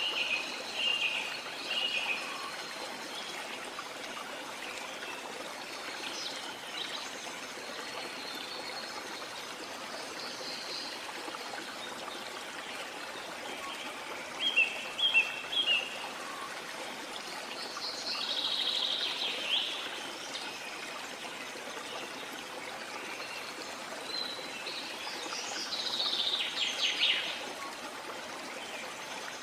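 Steady rush of a waterfall with birds chirping over it. There are short chirps near the start, a quick run of loud chirps about halfway, and longer trilling calls near the end.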